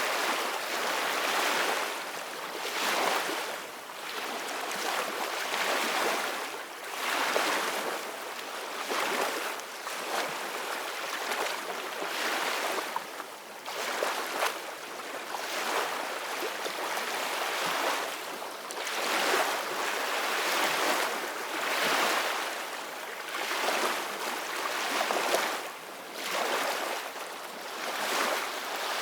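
Ocean waves breaking and washing on a shore in a continuous rushing surf, swelling and easing every second or two.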